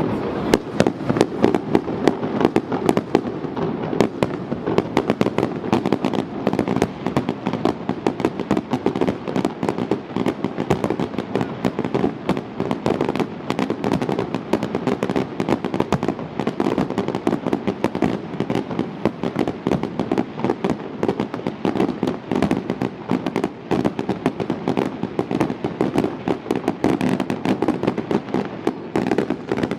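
Fireworks going off in a dense, rapid barrage of bangs and crackling pops, many per second without a break.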